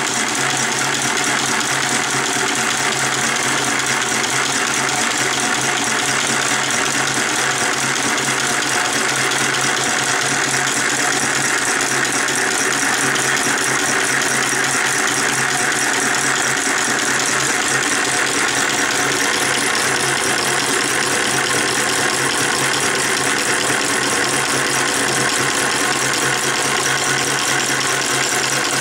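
Small model Stirling hot-air engine running steadily, its crank and linkages clattering quickly and evenly without a break.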